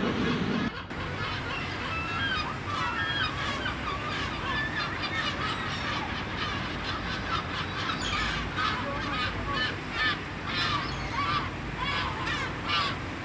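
A flock of seagulls calling, many short cries overlapping one another. A low steady hum underneath cuts off abruptly under a second in.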